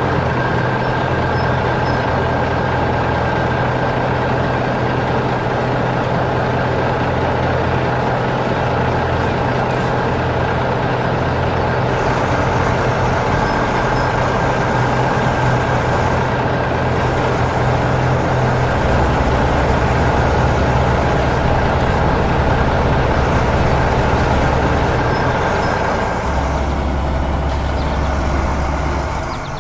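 Heavy vehicle engine running steadily, a construction-vehicle sound effect, dropping in level near the end.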